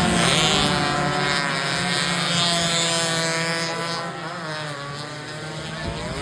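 Racing motorcycle engines at high revs, their pitch rising and falling as the bikes accelerate and shift. The sound fades somewhat after about four seconds and swells again near the end.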